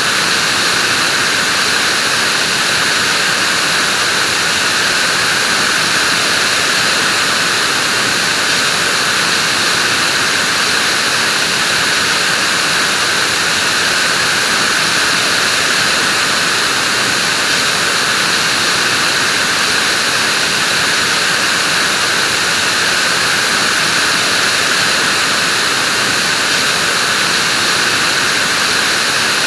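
Vacuum cleaner running at a steady speed: a loud, even rush of air with no change in pitch or level.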